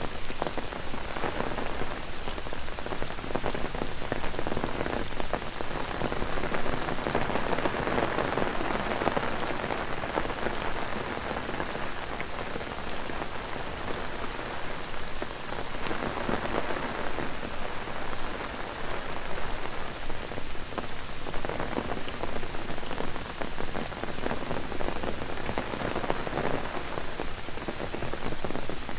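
Heavy rain pattering on an umbrella, over a steady high-pitched buzz of cicadas.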